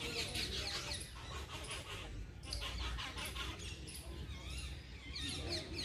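Many small birds chirping and twittering together in a dense chorus of quick rising-and-falling notes, over a steady low rumble.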